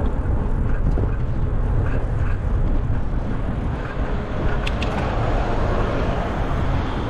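Wind buffeting the microphone of a camera carried on a moving bicycle, a steady rumbling rush.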